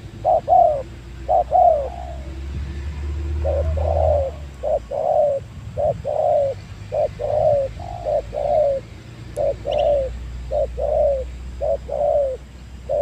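Spotted dove cooing over and over: paired notes, a short one followed by a longer one falling in pitch, about one pair a second, with a pause about two seconds in. A low rumble runs underneath, stronger for the first few seconds.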